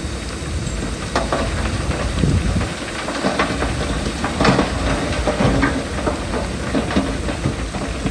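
Heavy earthmoving machinery running: a steady low diesel rumble, with irregular clanks and crunches of metal and stone over it.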